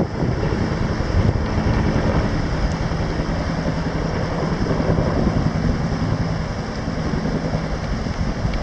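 Rescue helicopter running close, a loud steady rotor and engine rumble.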